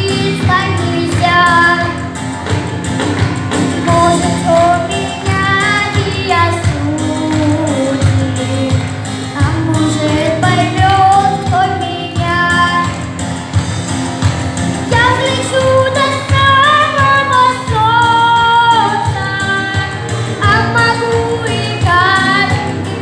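A female solo singer sings a song in held, melodic phrases over instrumental accompaniment with a steady bass and beat.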